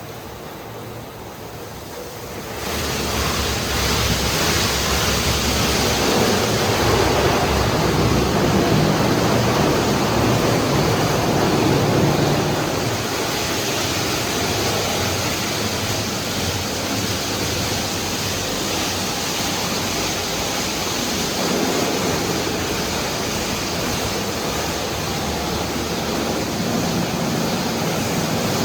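High-pressure water jets of a PDQ ProTouch Tandem touchless car wash spraying the car: a loud, steady hiss that comes on suddenly about two and a half seconds in and eases slightly about halfway through.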